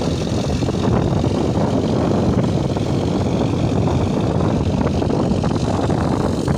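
Eicher 557 tractor engine running steadily under load as it drives a rotavator through the soil.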